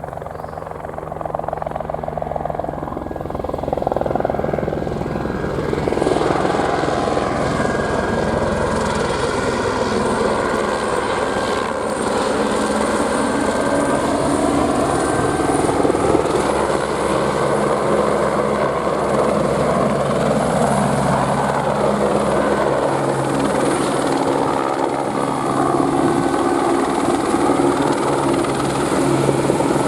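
Airbus AS350 single-turbine helicopter flying close by: steady rotor beat with a high turbine whine, growing louder over the first few seconds and then holding steady.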